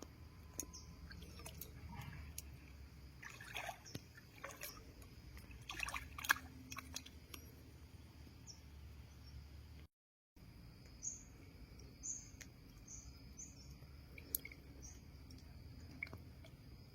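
Small wet splashes, drips and trickles of water being handled, in irregular bursts, with a few short high bird chirps in the second half.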